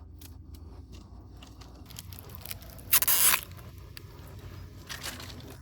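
Fresh pineapple crunching: one crisp, loud crunch about three seconds in, amid small clicks and light knocks.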